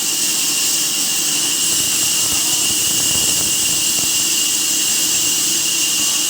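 Woodworking machinery running steadily: a constant loud hiss with a high, even whine over a low hum.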